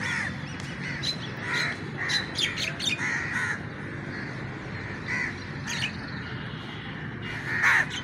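Birds calling in the open: a string of short calls, the loudest near the end, over a steady low background noise.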